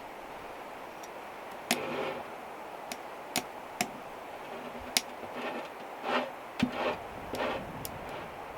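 Sharp clicks and light knocks at irregular intervals, with a few short clattering handling sounds, over a steady hiss.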